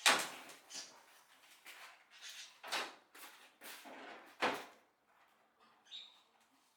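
A series of irregular knocks and clatters from parts and tools being handled during the repair of a large air-cooler fan. The loudest come right at the start and about four and a half seconds in, with lighter rattles between, and the sounds thin out near the end.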